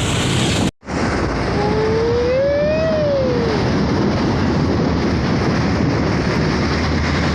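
Heavy truck engine running loud and steady under load. About two seconds in, a drawn-out tone rises and then falls. Under a second in, the sound cuts out for a moment.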